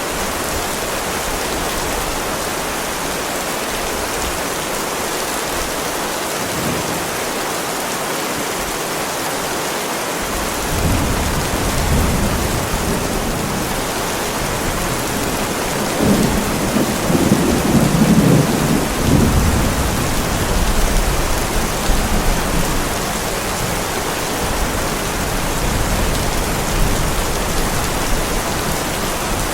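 Heavy rain pouring steadily on a driveway, with a roll of thunder rumbling in about a third of the way through, loudest around the middle, then fading to a low grumble.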